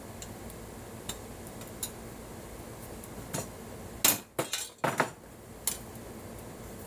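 Metal clinks and taps from aluminum pieces and hand tools being handled on a workbench: a few faint ticks, then a quick cluster of sharp clinks about four to six seconds in.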